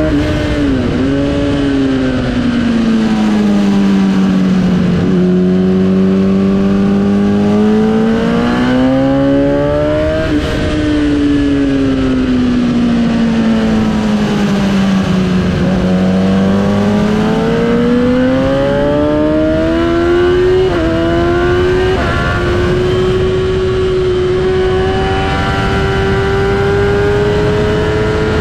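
Sport bike's engine heard from on board at speed, its pitch falling as the bike slows into corners and climbing again under acceleration, with short steps at the gear changes, over steady wind rush.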